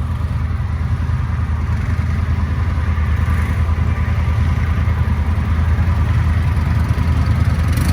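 ATV engines running in a steady low rumble that grows slightly louder as the machines move off.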